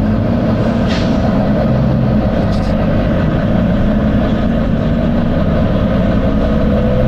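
Volvo B9TL bus's six-cylinder diesel engine running steadily, with two short air hisses, about one second and two and a half seconds in.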